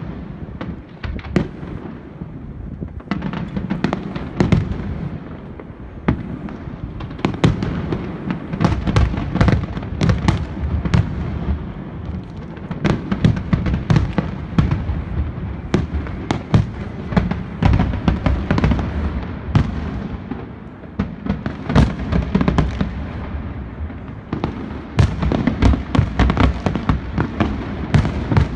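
Aerial fireworks display: many sharp bangs and crackles in quick succession over a continuous low rumble of overlapping bursts.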